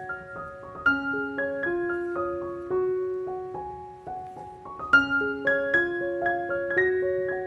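Background music: a piano playing a melody of struck notes that ring on and fade.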